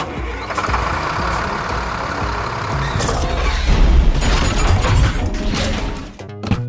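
A loud vehicle sound effect, a noisy engine with a deep rumble, running under background music. It grows louder about halfway through and cuts off suddenly shortly before the end.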